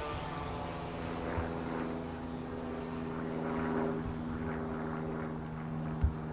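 Foam RC P-38 model plane in flight, its electric motors and propellers giving a steady droning buzz that is loudest about four seconds in. A sharp thump comes near the end.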